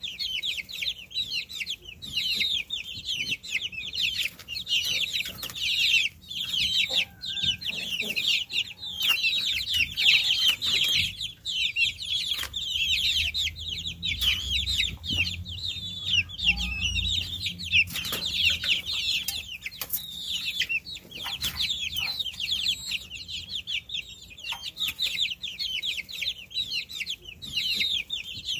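A crowd of baby chicks peeping continuously, many high chirps overlapping. A low rumble sits underneath for a few seconds in the middle.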